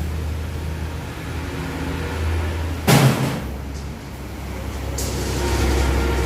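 A vehicle engine running steadily with a low rumble, with a short loud burst of noise about three seconds in and a sharp click about two seconds later.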